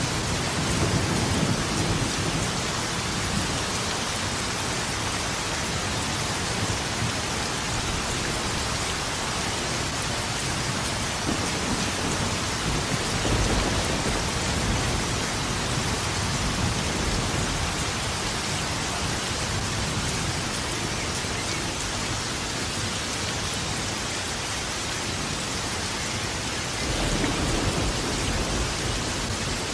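Steady heavy rain with low rolling thunder, the rumble swelling near the start, again around the middle and once more near the end.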